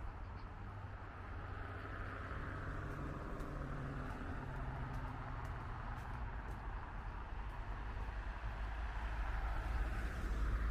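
City street traffic: a motor vehicle's engine hum with tyre noise on the road, growing louder as a vehicle passes close near the end.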